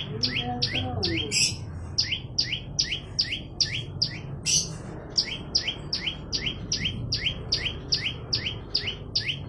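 Olive-backed tailorbird singing persistently: a fast, even string of sharp falling chip notes, about three a second. Twice a louder, noisier note breaks in.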